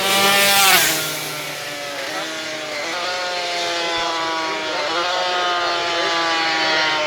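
Racing motorcycles on a road circuit. One passes close about a second in, loud, its engine note dropping as it goes by. Then a motorcycle engine accelerates hard, the pitch climbing and dipping at each gear change, twice.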